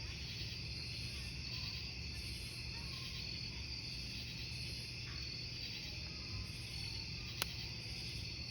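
Crickets chirping steadily over the low, even sound of a wood campfire, with one sharp crackle pop about seven seconds in.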